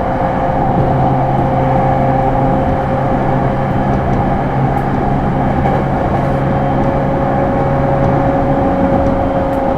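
JR East E231 series suburban electric train running at speed: a steady rumble of wheels on rail with a steady whine held at one pitch.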